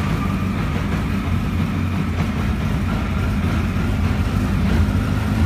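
Radical race car engine idling steadily just after being started, a loud, even low rumble with no revving.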